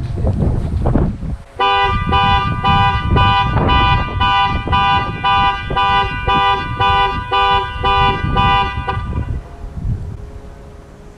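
Car alarm going off: the car's horn honking in a steady rapid pulse, about two honks a second, for about seven seconds, then stopping. Wind buffets the microphone throughout.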